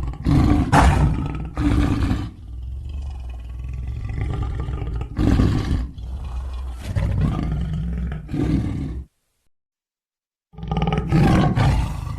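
Made-up dinosaur creature roars for a sound-effects set: several short roars and growls over a steady low rumble, then about a second and a half of silence before one more roar near the end.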